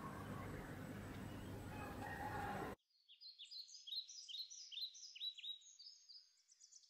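Steady outdoor background hiss, cut off abruptly about three seconds in. Then comes a run of high-pitched bird chirps, short falling notes repeating about three times a second, with nothing in the low range beneath them.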